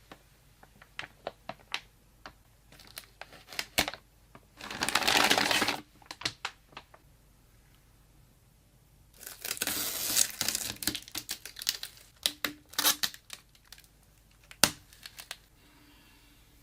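Hand handling of packaging or parts: scattered sharp clicks and taps, with two longer bursts of crinkling or tearing, about four seconds in and again about nine seconds in, and one loud click near the end.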